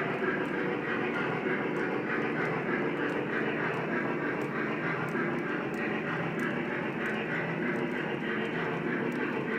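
Lionel O-gauge model train running steadily on three-rail track: a continuous rumble of the motors and wheels on the rails, with a few faint ticks.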